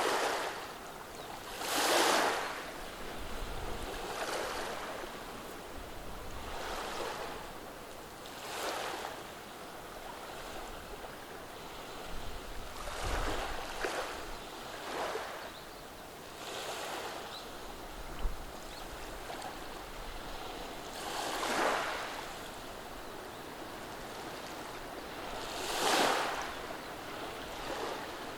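Gentle waves washing over a beach of rounded stones, each wave a soft rush of water and stones every few seconds, a few of them louder.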